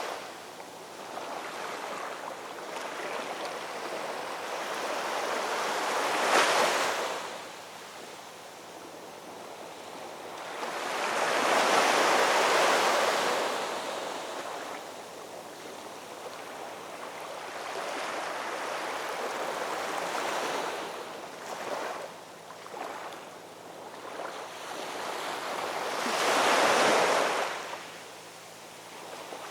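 Ocean waves breaking on a shore, each wave swelling into a hissing rush and drawing back; three bigger waves break about a quarter, two fifths and nine tenths of the way through, with smaller surges between.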